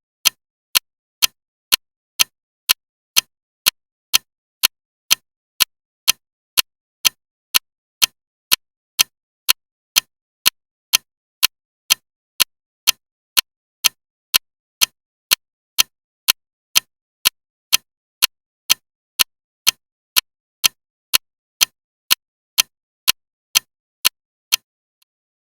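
Loud ticking clock, sharp even ticks at about two a second, stopping shortly before the end.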